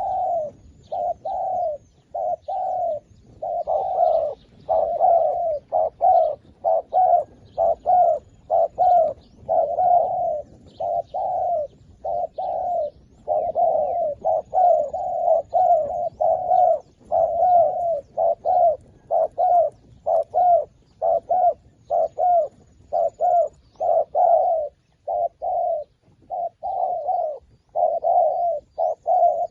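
Doves cooing in a steady run of short, repeated coos, a little more than one a second, with faint high chirps of small birds behind them.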